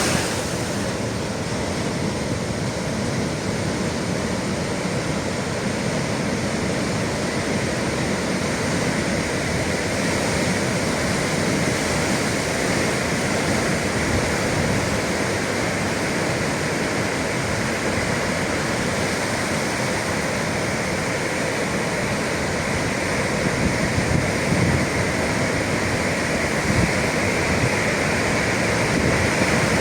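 Sea waves breaking against the shore, a steady rush of surf with no pauses between breakers.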